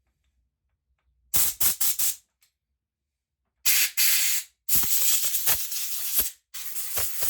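Spray hissing through the passages of a small-engine carburettor, being cleaned out because it is blocked. A few short puffs come about a second in, then longer, spluttering bursts from about three and a half seconds on.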